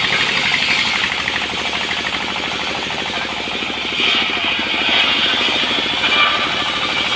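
Portable sawmill running, its engine going steadily with a fast, even pulse. A brighter, harsher noise comes up about four seconds in.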